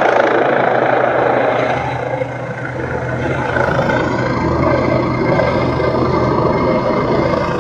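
Ambulance helicopter hovering low over a city street: a steady engine-and-rotor drone with a low hum, mixed with road traffic. It eases slightly about two seconds in.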